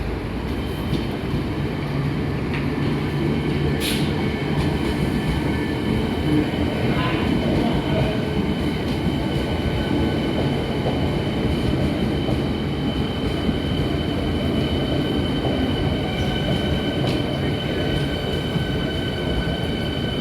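Electric suburban train pulling into the platform: a steady rumble of wheels and running gear, with a thin steady high whine from about a second in.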